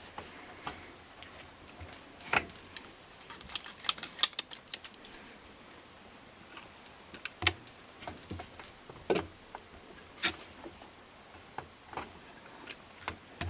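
Scattered clicks and light knocks at irregular intervals, from hands and tools working the hoses, clamps and plastic parts of a front-load washing machine during a drain hose repair.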